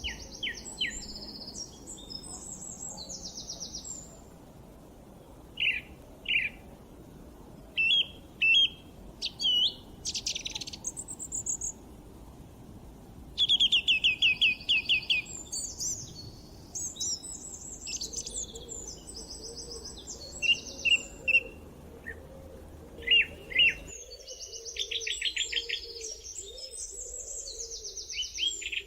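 Songbirds singing and chirping, with quick trills of rapidly repeated notes, over a faint steady background hiss.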